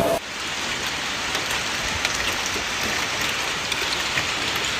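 Heavy rain pouring down steadily, a dense hiss with many small drop impacts.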